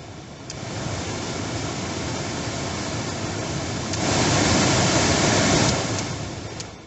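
Chevrolet Lacetti heater blower fan blowing air. It starts after a click, steps up to a louder, higher speed about four seconds in, eases back down, and stops after a second click near the end. The freshly lubricated motor runs without whining.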